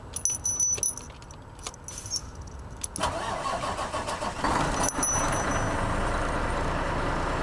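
Semi-truck diesel engine cranked and started after a few clicks: it turns over about three seconds in, catches and gets louder around four and a half seconds in, then settles into a steady idle. It starts on its batteries with a newly replaced battery crossover cable.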